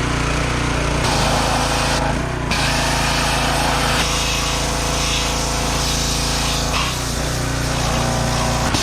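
Pressure washer running steadily while its water jet sprays onto a car engine; the hiss of the spray grows and drops several times as the jet moves or is triggered.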